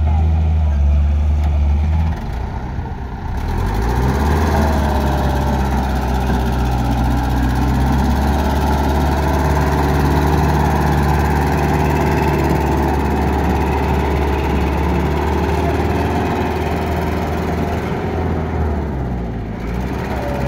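Tuffy Gadraj heavy engine running steadily with a deep, low note. About two seconds in, its level and pitch drop slightly, then it settles and holds steady.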